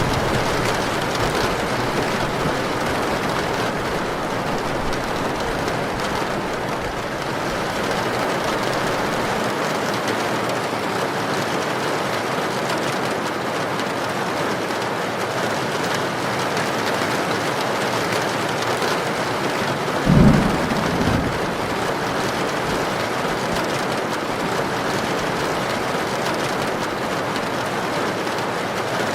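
Heavy rain falling steadily. A brief low thump about two-thirds of the way through is the loudest moment.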